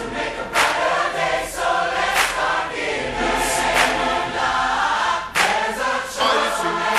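Massed choir singing a pop-ballad chorus over backing music with a steady beat.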